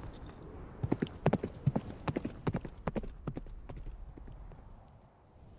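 Horse hoofbeats, a quick uneven run of knocks that starts about a second in and fades away over the next three seconds as the horses ride off.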